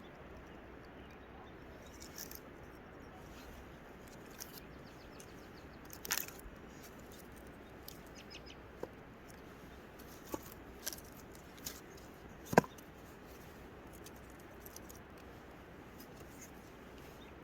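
Steady low hiss with a scattered handful of short, sharp clicks and knocks, the loudest about twelve seconds in.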